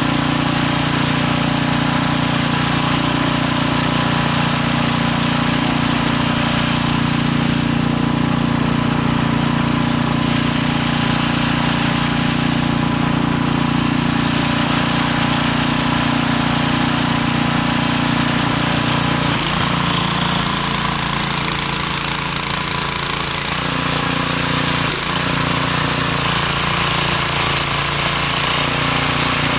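Small gasoline snowblower engine running steadily and loudly, its note dipping briefly twice in the second half.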